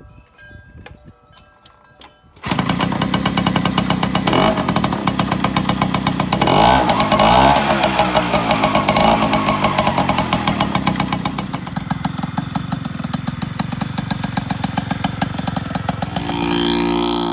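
Puch Maxi N moped's small single-cylinder two-stroke engine running, with a rapid pulsing exhaust note. It comes in abruptly about two and a half seconds in, revs up briefly a few seconds later, then runs steadily and eases off near the end.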